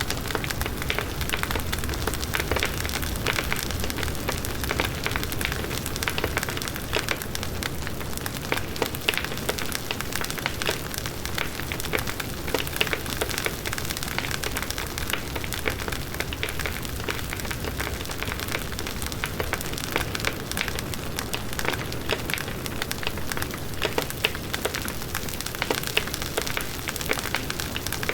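Wood bonfire burning: a steady rush of flames with dense, continuous crackling and popping of the burning wood.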